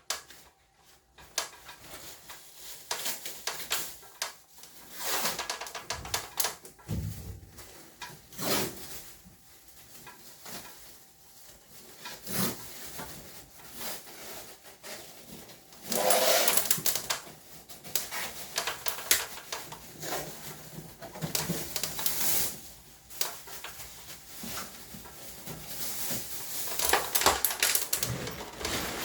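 Irregular clicks, knocks and clatter of the air conditioner's plastic and metal parts being handled and taken apart, with a louder scraping rattle about halfway through.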